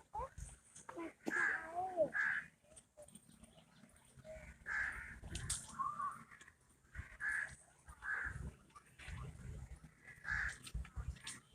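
Crows cawing, about eight harsh calls spaced a second or two apart.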